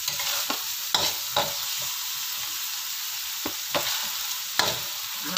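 Diced carrots, chilies and sauce sizzling in a wok while a metal spatula stirs them. The spatula clicks and scrapes against the pan about seven times at uneven intervals over a steady frying hiss.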